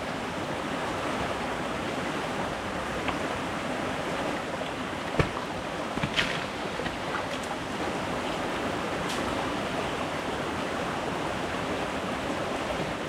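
Stream water rushing steadily, with one sharp knock about five seconds in and a few fainter clicks.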